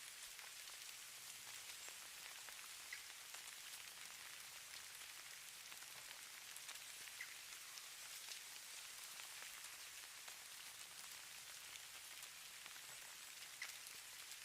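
Falling snow: a faint, steady high hiss with many tiny ticks and a few sharper ones scattered through it, like light precipitation settling on a surface.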